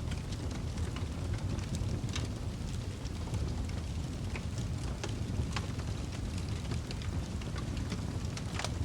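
Wood fire burning in a fireplace: a steady low rumble of flame with frequent sharp crackles and pops from the burning logs, one louder pop near the end.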